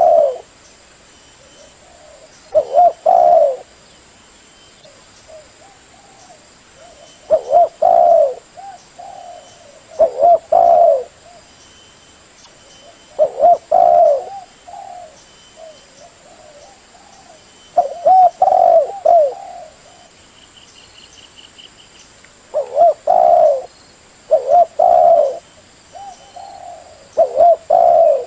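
Spotted dove cooing: short phrases of a few low coos, repeated every two to five seconds.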